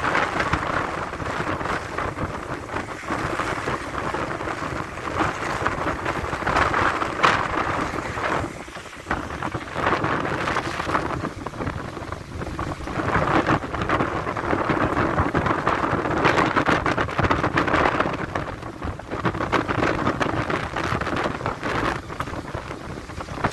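Heavy storm rain pelting down, the noise swelling and easing in waves, with a brief lull about nine seconds in.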